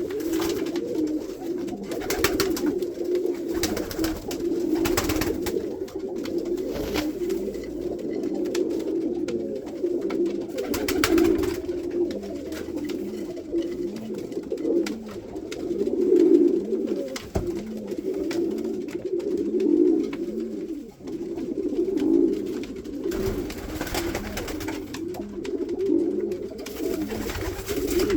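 Pakistani pigeons cooing: a low, rolling coo repeated over and over without a break.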